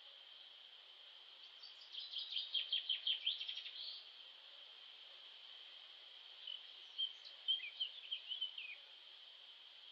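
A songbird singing two phrases of quick chirps and trills, about two seconds in and again a few seconds later, over a steady high-pitched drone.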